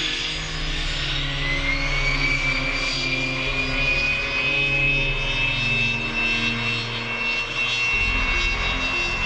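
Jet airliner turbofan engines running, their whine rising in pitch over several seconds and then holding steady over a dense rumble and roar.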